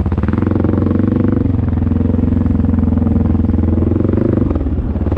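Dirt bike engine running at a steady speed, with a brief dip in pitch about four and a half seconds in.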